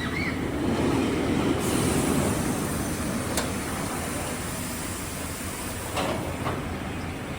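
A ride train rolling along its track: a rumble that builds in the first two seconds and then fades away, with a couple of sharp clicks later.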